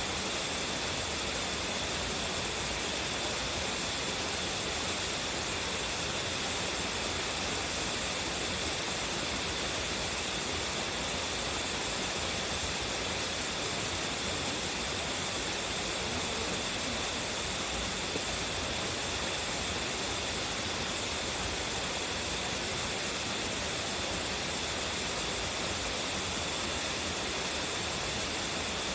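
Waterfall with a strong flow, its water crashing down in a steady, unbroken rush.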